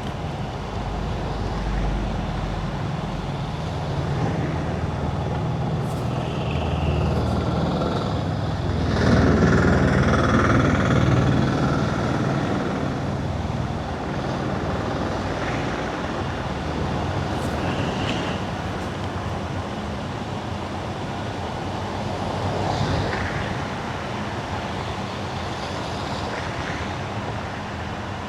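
Car driving on wet winter asphalt: steady tyre hiss and road noise, with traffic around it, swelling louder for a few seconds about nine seconds in.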